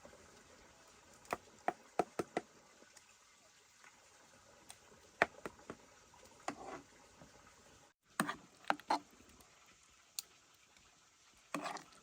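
Scattered light knocks and clatters, some in quick clusters of two to four, with short quiet gaps between them.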